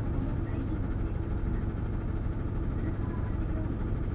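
Hino Blue Ribbon City Hybrid bus's diesel engine running with a steady low drone.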